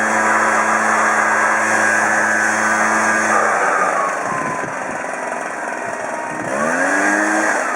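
Kawasaki two-stroke backpack leaf blower running at full throttle, then throttled back about three and a half seconds in, its pitch falling, and revved up again briefly near the end.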